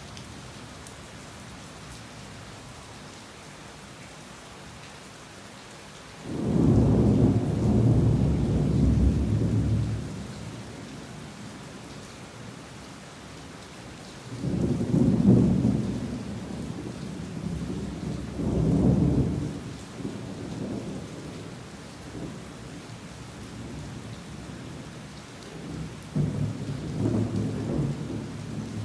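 Heavy rain falling steadily in a thunderstorm, with thunder rumbling low and loud four times: a long roll about six seconds in, two shorter ones around fifteen and nineteen seconds, and another starting near the end.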